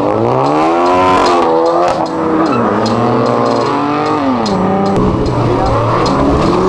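A car accelerating hard: its engine note climbs through the revs, drops back twice, about two and four seconds in, as it shifts up, and climbs again near the end.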